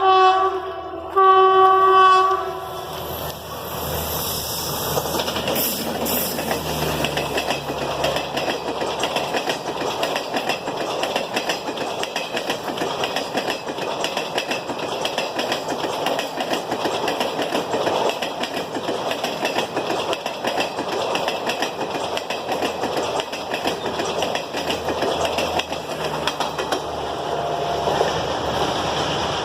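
Indian Railways train sounding a horn blast about a second long just after the start, then passing close by: a steady rushing rumble with wheels clattering over the rail joints.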